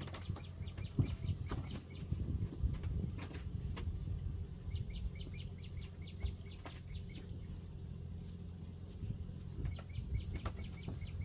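Outdoor rural ambience: a steady high-pitched tone like an insect drone, with many short clicks and chirps scattered through it over a low rumble.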